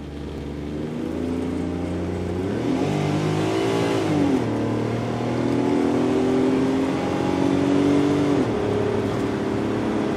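Exhaust note of a naturally aspirated Daihatsu Mira Gino L700S three-cylinder kei engine through an aftermarket centre-exit pipe muffler. The engine note climbs, sweeps up and drops sharply about four seconds in, holds a higher steady pitch, then drops again near the end.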